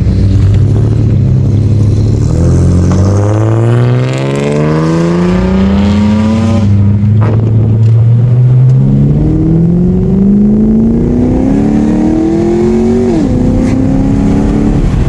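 V8 car engine accelerating hard through the gears: the revs climb for several seconds, break at a gear change about seven seconds in, climb again, and drop at another shift near the end.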